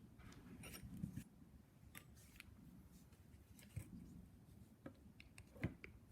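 Faint, scattered clicks and light taps of small parts and hand tools being handled during a brush cutter carburettor overhaul, the sharpest about a second in and again near the end, over a low room hum.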